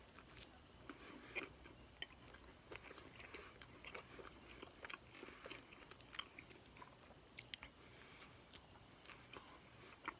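Faint chewing and wet mouth clicks of a person eating a small hamburger slider, in irregular short bites.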